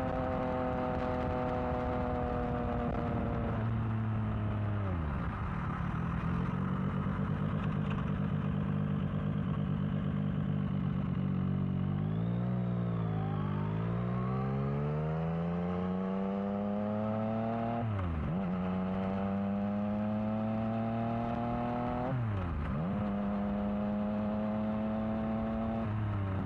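Yamaha XSR900's inline three-cylinder engine on a new exhaust, riding and accelerating through the gears. The engine pitch climbs, then drops sharply at each upshift, three or four times. Midway it falls off briefly and picks up again.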